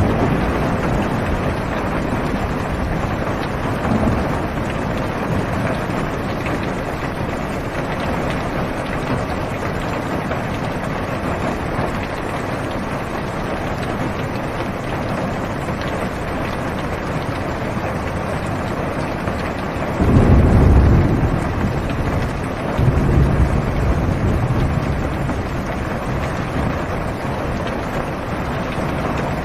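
Heavy rain falling steadily on a car's roof and windows, heard from inside the car. About twenty seconds in, thunder rumbles low twice in close succession, the first roll the louder.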